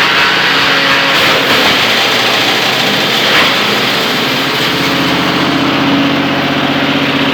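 17 hp petrol engine of a wood chipper running steadily. A brief, sharper rasp stands out about three seconds in.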